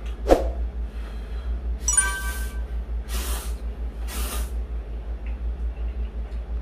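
Ramen noodles being slurped: three loud slurps about two, three and four seconds in, the first with a thin whistling tone. A short sharp sound comes just before, and a steady low hum runs underneath.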